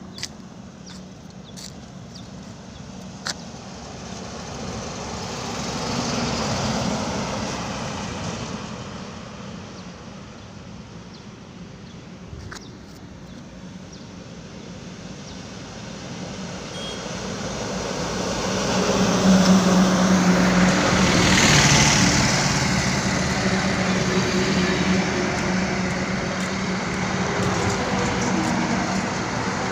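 Highway traffic passing. One vehicle goes by about six seconds in, then a louder one with a heavy, steady engine drone builds up and passes about twenty seconds in, and the road noise stays high after it.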